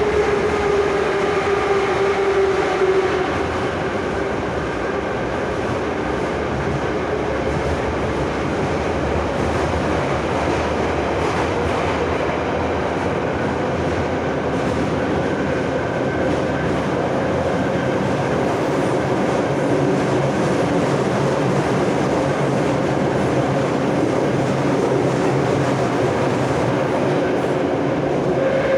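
Moscow Metro 81-717/714 'Nomernoy' train running through the tunnel between stations, with a steady rumble of wheels on rail. A whine falls and fades in the first few seconds and comes back near the end.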